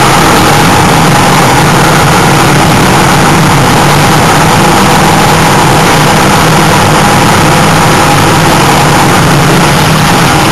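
Race car engine running steadily, heard from inside the cockpit, very loud and constant, its pitch starting to climb near the end.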